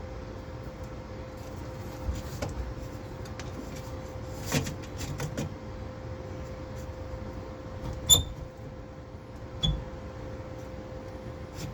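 Metal parts and tools being handled: scattered knocks and two sharp, ringing metal clinks late on, over a steady hum.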